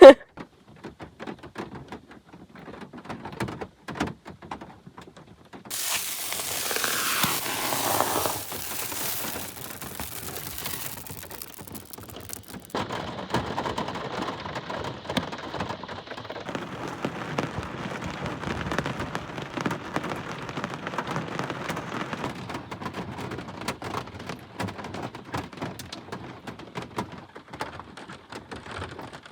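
Rain falling and pattering on a surface: scattered drops at first, a louder steady hiss from about six seconds in, then an even, dense patter from about thirteen seconds on.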